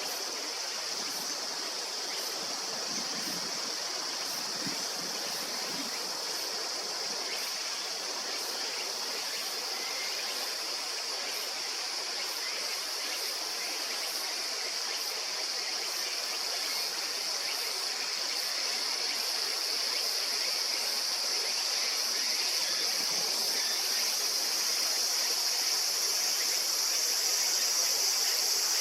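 River water running steadily, under a continuous high insect chorus of summer crickets or cicadas. Faint regular ticks sit above it, and it grows a little louder towards the end.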